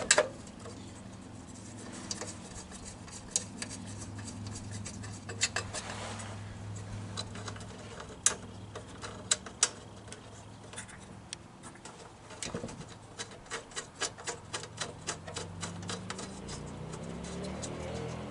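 Irregular light clicks, taps and rubbing of hand tools and small metal parts being handled during reassembly of a small mower engine, coming faster, about two or three a second, in the last few seconds, over a faint steady low hum.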